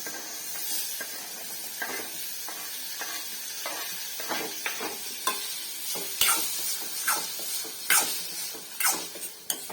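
Onions and tomatoes sizzling in oil in a pan while being stirred, the stirring utensil scraping and knocking against the pan again and again, more often in the second half.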